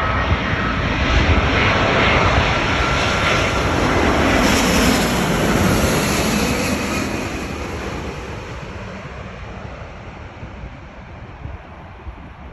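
Airbus A350-1000 jet airliner, with Rolls-Royce Trent XWB-97 turbofans, passing close on arrival. The jet noise swells with a faint whine to its loudest about five seconds in, then fades steadily as the aircraft moves away.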